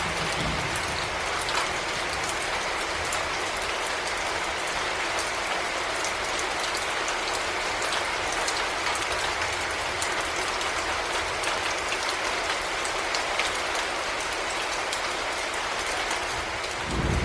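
Heavy rain falling steadily: a dense hiss of rain with many individual drops ticking sharply through it. A short low rumble comes near the end.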